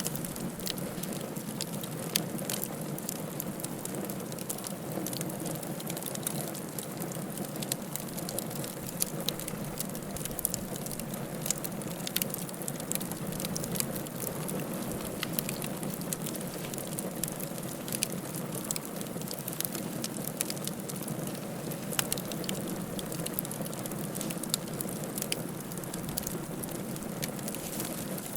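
Wood fire crackling in a fireplace: a steady low hiss with irregular snaps and pops, a few of them sharper and louder than the rest.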